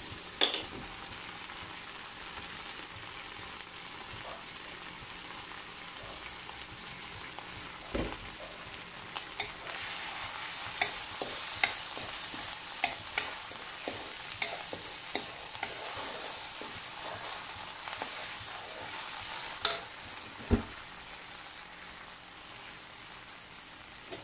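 Chilli paste with garlic and onion sizzling in a wok, with a wooden spatula scraping and knocking against the pan as it is stirred. The steady hiss carries throughout, and the spatula knocks come in a scattered run through the middle.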